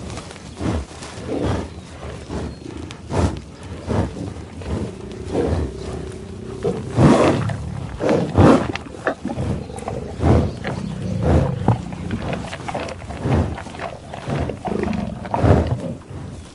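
Lion growling in an irregular series of short, rough calls, with a few longer held growls.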